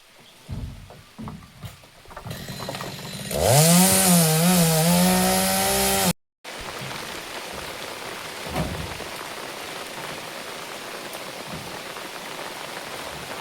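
A small engine runs loudly for about three seconds with a wavering pitch, then cuts off abruptly. A steady hiss follows.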